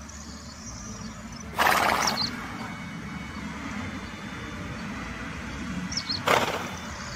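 A horse snorting twice, each a short, loud, noisy blow, the two about four and a half seconds apart, over a steady low background rumble.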